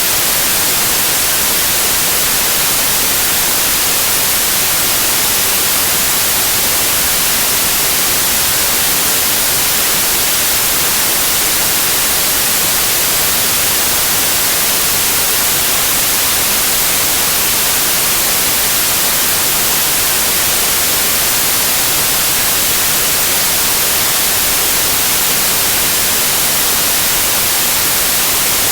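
Steady white noise like TV static: an even, unchanging hiss with most of its energy in the high frequencies.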